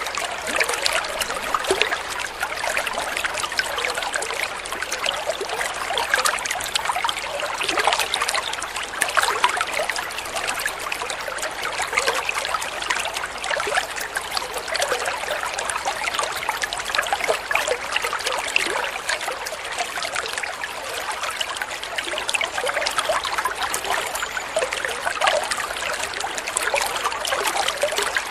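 Water flowing and trickling steadily, a continuous splashing babble with no change in level.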